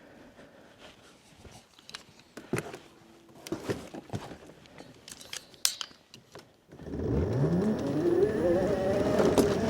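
Scattered small clicks and knocks, then about seven seconds in an engine starts abruptly, its pitch rising over a second or so before settling into a steady loud run.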